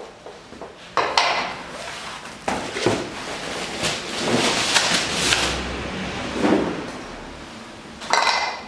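Handling noises in a workshop: a sharp clunk about a second in, then scraping and rustling with a few knocks, and another clatter near the end.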